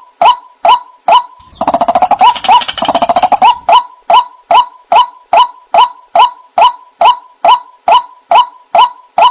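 White-breasted waterhen (ruak-ruak) calls played as a lure recording: a short, upswept note repeated about twice a second, interrupted about one and a half seconds in by a couple of seconds of rapid, dense chattering before the steady repeated notes resume.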